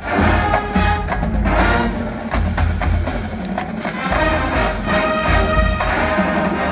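Marching band playing: brass sustaining full chords over percussion, with frequent sharp hits from the drums and woodblock.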